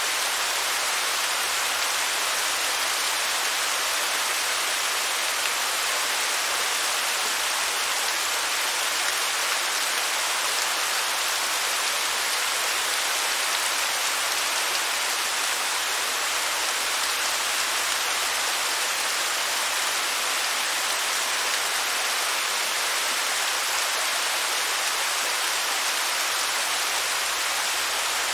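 Waterfall: falling water splashing in a steady, even hiss that keeps the same level throughout.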